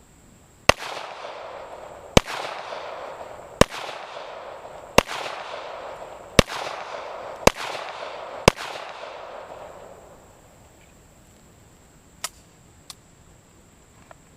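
Seven handgun shots fired one after another, about one to one and a half seconds apart, each followed by a long rolling echo. A few faint clicks follow near the end.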